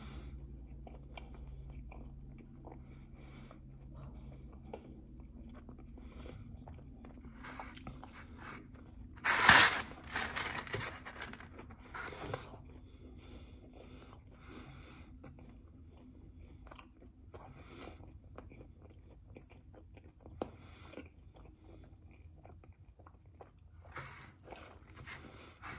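Close-miked chewing and biting of cheese pizza, a run of small wet clicks and crunches. A much louder, brief noisy burst comes about nine and a half seconds in.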